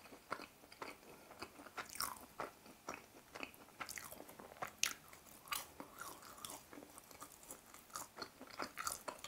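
Close-miked chewing of crispy, breaded fried food, with irregular crunches and wet mouth clicks.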